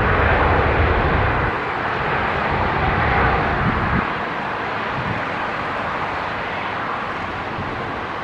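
Airbus A350-941 airliner's Rolls-Royce Trent XWB engines, a steady jet roar fading in steps as the landing plane moves away from the microphone, with irregular low rumbles of wind on the microphone.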